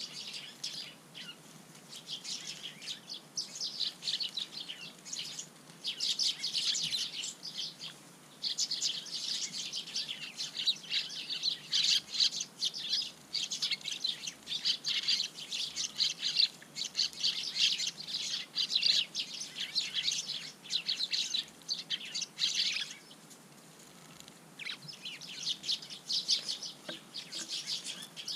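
A flock of Eurasian tree sparrows chirping and chattering in quick, dense runs, with a short lull near the end.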